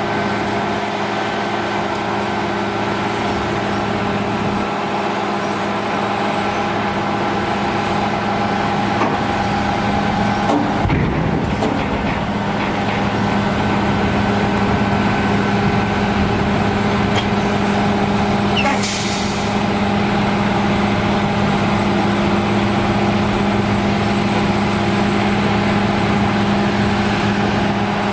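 A large engine running steadily at constant speed, with a short hiss about two-thirds of the way through.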